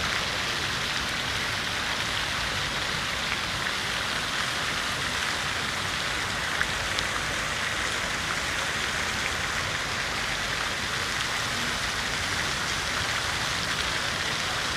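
Fountain water splashing steadily into its basin: an even, unbroken hiss of falling water with faint droplet ticks.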